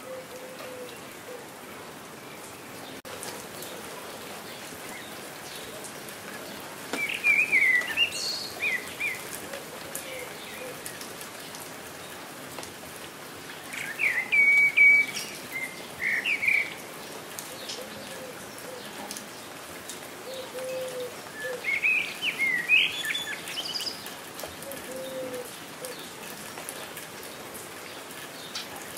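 Steady rain falling, with a songbird singing three short bursts of chirping song, each a couple of seconds long, spaced about seven seconds apart.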